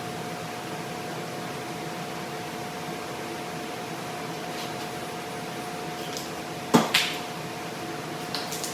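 Steady machine hum, like a fan or motor running, with two sharp knocks close together about seven seconds in.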